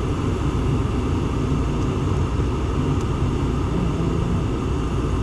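Gas furnace running in heat, its blower motor and burners giving a steady rumble.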